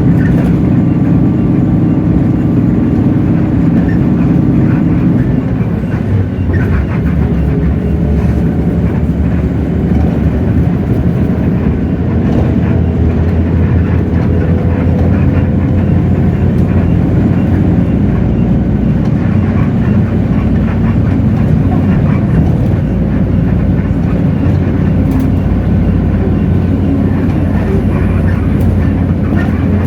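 Hino J08E-VN inline-six diesel engine of a city bus running steadily under way. About five seconds in, the engine note breaks off and dips briefly, then settles into a new steady note.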